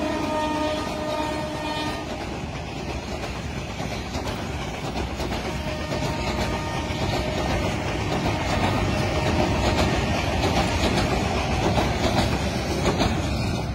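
A diesel locomotive's horn trails off in the first two seconds as a long passenger train's coaches roll past close by. The wheels clatter steadily over the rail joints.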